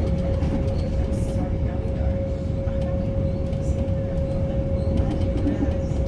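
Metro suburban electric train running between stations, heard from inside the carriage: a steady low rumble of the wheels on the track with one constant tone held over it.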